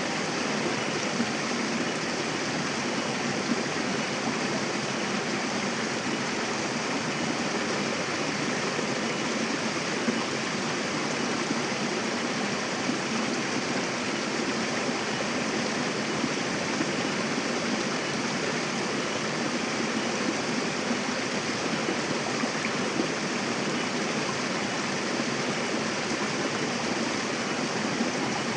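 Mountain river rushing over rocks: a steady, even wash of flowing water with small splashes now and then.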